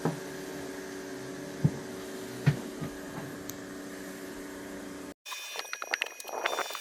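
A steady machine hum with two short knocks. It cuts out abruptly a little after five seconds, and a different sound begins: several steady tones with a rapid scatter of clicks and taps.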